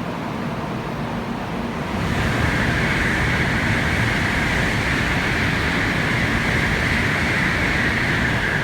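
A 700 series Shinkansen train at a station platform: a steady rushing hiss over a low rumble, which grows louder about two seconds in and then holds.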